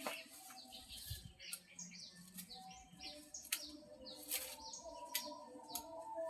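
Small birds chirping: many short, quick, high chirps in a steady stream, with a few sharp clicks among them.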